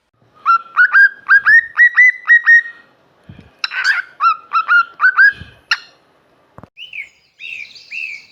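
Cockatiel calling: a fast run of short rising chirps, then one harsher call and another run of chirps. Near the end comes a series of higher, falling calls.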